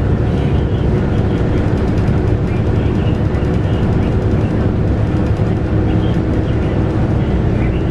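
Scania K230UB bus's 8.9-litre five-cylinder Scania DC9 diesel engine running steadily, heard from inside the bus with a low rumble.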